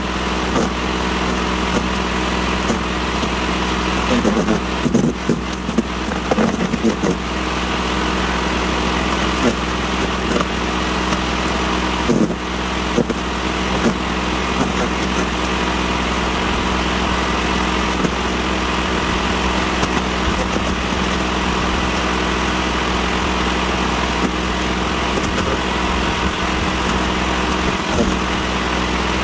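Sun Joe CJ601E 14-amp electric wood chipper running steadily, with a few brief irregular louder moments about five seconds in and again near twelve seconds.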